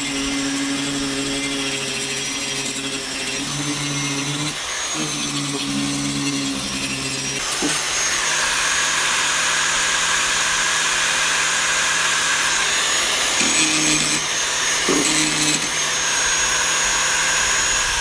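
Handheld rotary tool with a diamond disc grinding down high spots of cured silicone, its motor running steadily with a high whine; the pitch dips briefly about four seconds in and the grinding grows harsher about halfway through.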